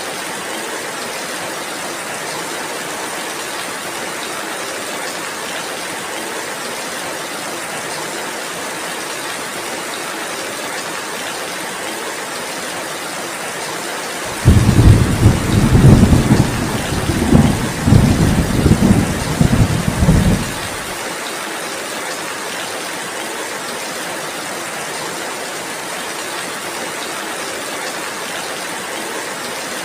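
Heavy rain falling steadily, with a sudden roll of thunder about halfway through that rumbles low in several surges for about six seconds before fading back under the rain.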